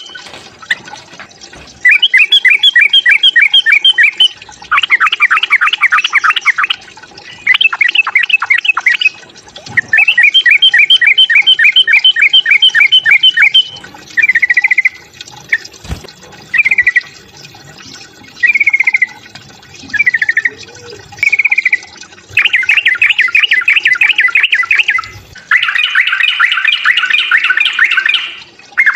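Yellow-vented bulbul (trucuk) giving its fighting call: bursts of rapid chattering trills lasting a few seconds each. Through the middle it switches to short slurred phrases about once a second, then returns to dense chattering near the end.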